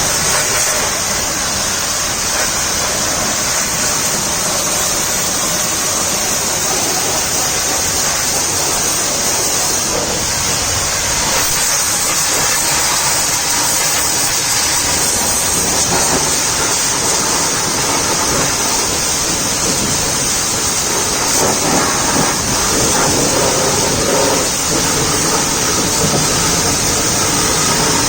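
A steady, loud hiss of a high-pressure water jet spraying a truck's body, the spray noise holding without a break.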